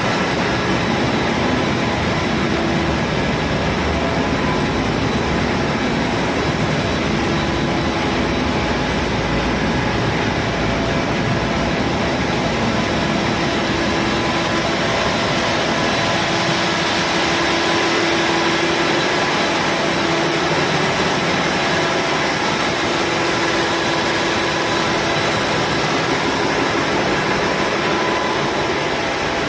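Engine room machinery running with a steady, loud din and fixed tones, plus a low hum that swells and fades a few times.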